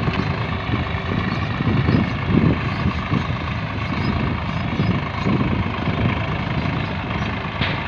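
Swaraj 960 FE tractor's diesel engine running steadily at a low, even speed.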